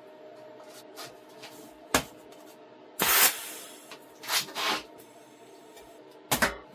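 Workshop handling noises from metal work: a sharp knock, a short loud scraping or hissing burst, two shorter ones, then a double knock near the end, over a faint steady hum.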